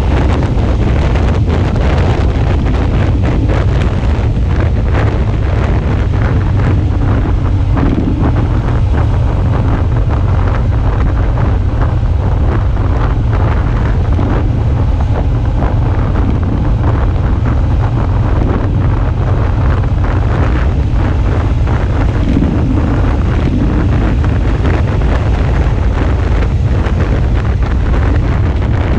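Heavy wind buffeting on the microphone of a camera riding on a moving Suzuki V-Strom 650, a steady low rumble with the motorcycle's 645 cc V-twin engine running underneath.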